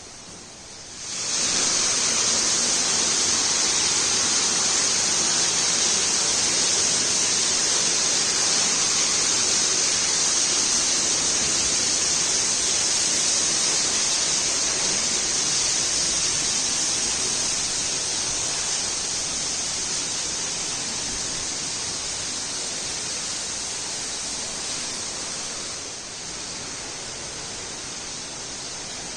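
Steady rush of flowing water that starts suddenly about a second in, then slowly fades, dropping a little near the end.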